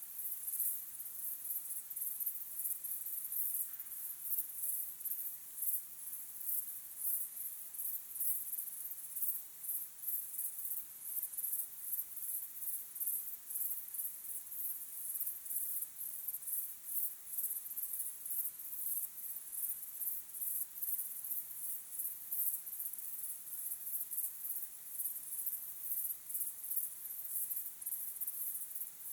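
Evening chorus of crickets chirping: a dense, high-pitched, rapidly pulsing trill that goes on without a break.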